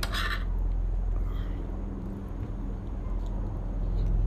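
Steady low rumble with a constant hum underneath, and a short hiss right at the start.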